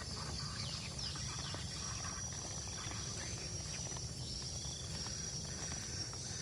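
Steady high-pitched insect drone, with a few short falling chirps about a second in, over a low outdoor rumble.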